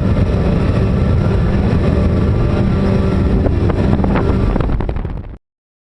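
Twin Mercury Verado 400 supercharged inline-six outboards running steadily with the boat under way, with some wind on the microphone. The sound cuts off abruptly about five seconds in.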